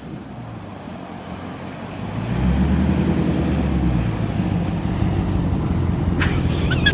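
Dodge Scat Pack's 6.4-litre HEMI V8 revving up about two seconds in and holding high revs as the car slides in snow.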